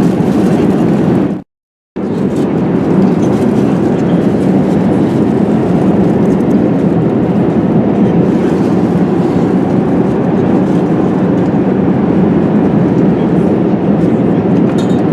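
Steady cabin noise inside an Airbus A380 in cruise: air rushing past the fuselage and the engines running, a constant low rush. The sound cuts out for about half a second near the start.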